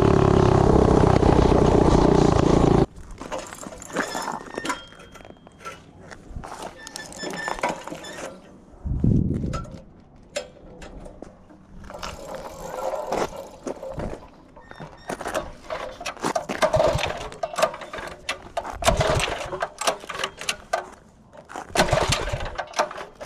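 Tillotson 212 single-cylinder four-stroke engine on a mini bike running hard at high revs, cutting off suddenly about three seconds in. Quieter scattered clicks, knocks and rustling follow.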